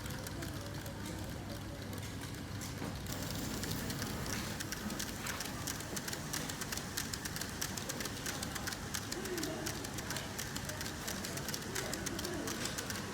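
N gauge model train running on a layout: a steady running noise with dense irregular clicking of the wheels on the track. In the second half there are a couple of short, low, wavering sounds.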